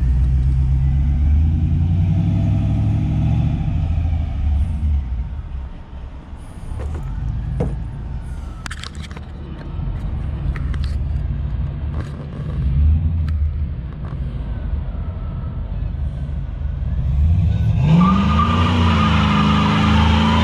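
LS-swapped 1996 GMC 1500 pickup's V8, fitted with a FAST 102 mm throttle body, running at low revs with a rumble that rises and falls, then revving up hard near the end as the truck is put under throttle.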